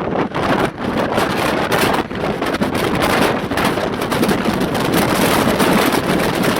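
Jet airliner engines running at take-off power, with the jet blast buffeting the microphone in constant gusts.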